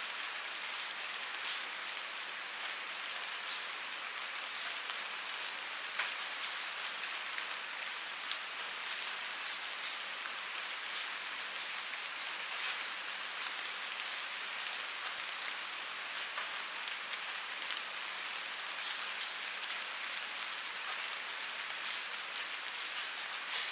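Steady rain falling, a constant hiss with many separate drops ticking close by on a hard surface.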